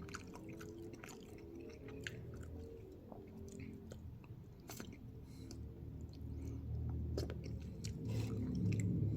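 A person chewing air-fried chicken wings close to the microphone, with many small wet clicks and smacks of the mouth. A low background sound grows louder toward the end.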